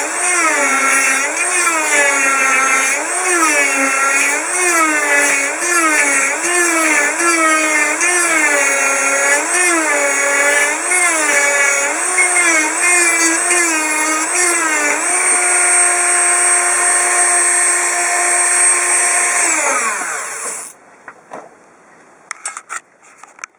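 Self-propelled lawn mower running, its pitch rising and falling about once a second, then holding steady for a few seconds before winding down and stopping. A few faint clicks follow.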